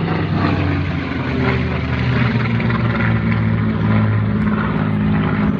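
Piston-engined propeller aircraft flying past, its engines giving a loud, steady drone.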